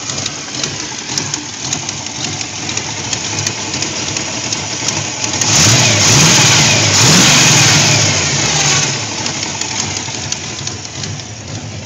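Carbureted V8 engine idling, revved twice by hand at the four-barrel carburetor's throttle linkage about halfway through, then settling back to idle.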